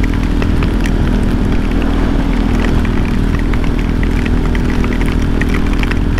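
KTM Duke 390 single-cylinder engine running at a steady cruise, with scattered ticks of heavy rain striking close by.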